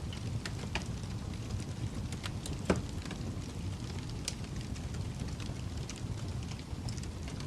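Fireplace fire crackling: a steady low rumble of flames with scattered sharp pops and crackles, one louder pop a little under three seconds in.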